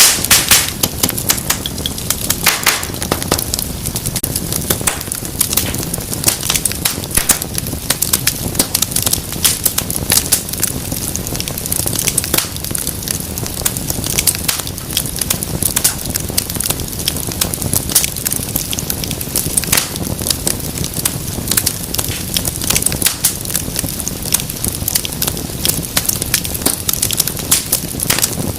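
Wood fire crackling steadily: dense, irregular sharp pops and snaps over a low rumble of burning, with a burst of louder pops right at the start.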